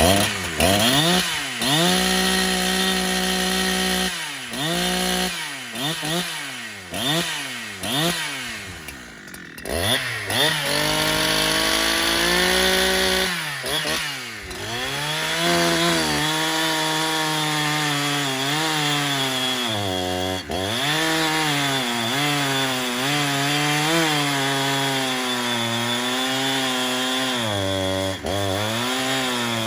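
Husqvarna 372XP two-stroke chainsaw with a modified muffler (16 mm outlet pipe), revved in repeated quick throttle blips for about the first ten seconds, then held at full throttle cutting wood, its pitch dipping now and then as the chain loads up in the cut.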